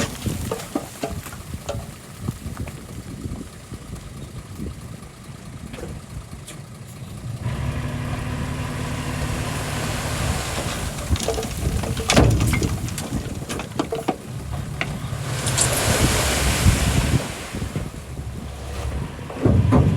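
Small crawler bulldozer's diesel engine running with knocks and clanks of the machine working. The engine comes up loudly about a third of the way in, with a hiss from about three quarters of the way through and sharp knocks in between.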